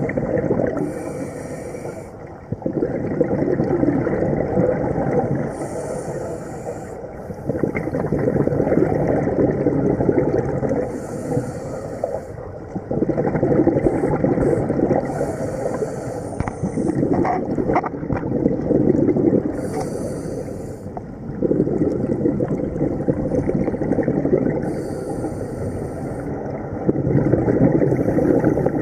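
Scuba diver breathing through a regulator underwater: a short hiss on each inhale, then a low rumble of exhaled bubbles, about every five seconds.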